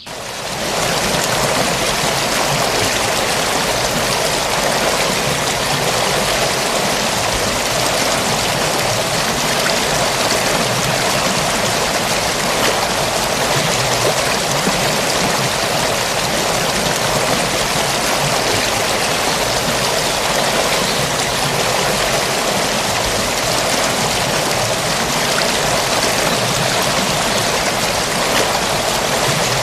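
Forest stream flowing, a steady rush of water that fades in over the first second.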